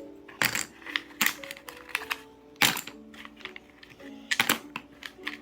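Small puzzle pieces clattering and knocking against each other and a hard surface as they are gathered up and put away, in irregular clicks, several of them in quick succession about four seconds in. A soft background melody plays underneath.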